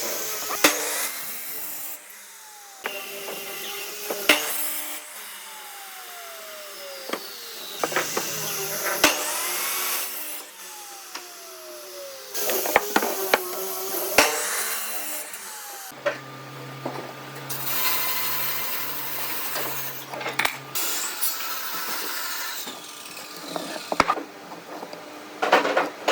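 Woodworking power tools running on hardwood, with pitch glides as the tool speeds up and slows down and sharp knocks of wood being handled. The sound changes abruptly several times.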